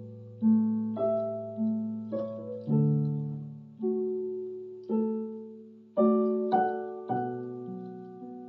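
Electronic keyboard with a piano sound playing a slow Korean drama theme: melody notes and chords struck about once a second, each ringing and fading away, over held bass notes.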